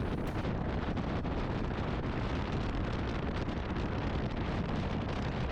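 Wind rushing over the microphone on a Bajaj Dominar 400 motorcycle riding at highway speed, steady throughout, with the bike's running and road noise underneath.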